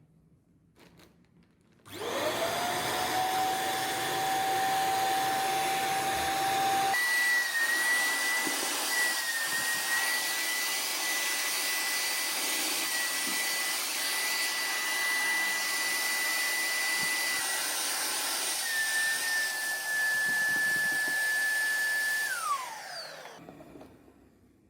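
Small electric motor appliance with a fan, such as a vacuum cleaner or hair dryer, switched on and spinning up, then stepped up to a higher speed with a higher whine, and finally switched off and winding down with a falling pitch.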